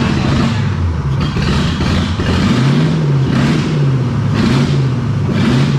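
Ford Crown Victoria's 4.6-litre V8 being revved repeatedly, its pitch rising and falling about once a second, with a rushing noise at each rev.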